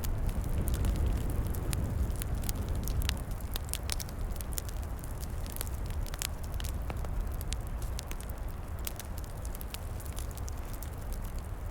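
Log fire crackling with frequent sharp, irregular pops and snaps over a steady low rush of flame and wind in the trees, a little louder in the first few seconds.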